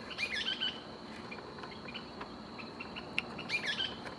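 Pre-dawn call of an unidentified bird, which the uploader suspects is a kingbird: a quick run of short, hooked chirping notes given twice, about three seconds apart, over a steady thin high tone.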